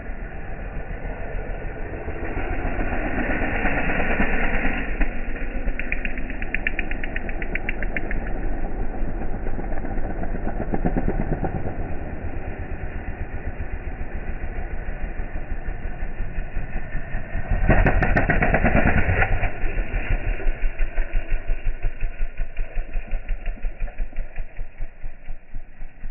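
Dirt bike engine, slowed down along with the slow-motion footage into a deep throbbing. It surges louder twice, and near the end its pulses slow to about three a second.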